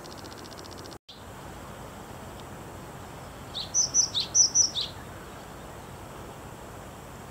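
A songbird sings a short phrase of about seven quick, high chirps lasting about a second and a half, over a steady outdoor background hiss.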